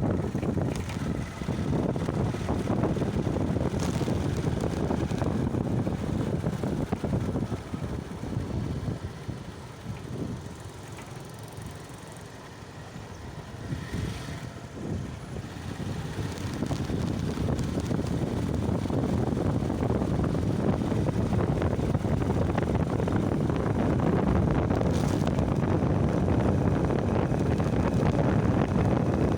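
Wind rushing over the microphone during a bike ride, mixed with road and vehicle noise. It eases for a few seconds about ten to fourteen seconds in, then builds back up.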